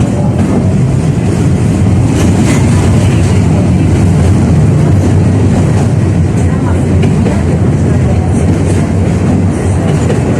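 71-605A (KTM-5A) tram rolling along the track, heard from inside the car: a loud, steady rumble of steel wheels on the rails with a few faint clicks.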